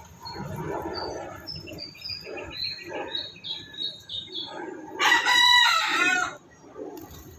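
A series of short high chirps, then about five seconds in one loud drawn-out animal call lasting about a second and a half, falling in pitch at its end.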